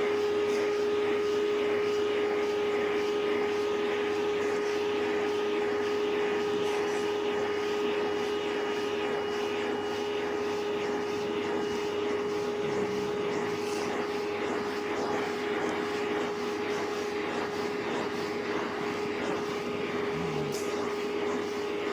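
A steady machine drone: one constant pitch with a few overtones over a hiss, unchanging throughout and cutting off abruptly at the end.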